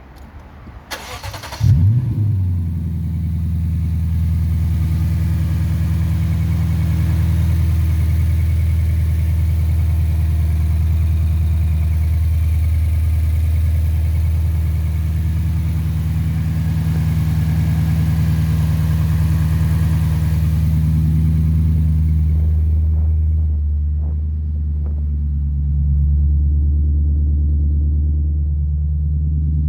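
Lexus RC F's 5.0-litre V8 cranked by the starter for about a second, catching with a brief rev flare, then idling steadily. The idle note dips slightly and comes back up a little over 20 seconds later.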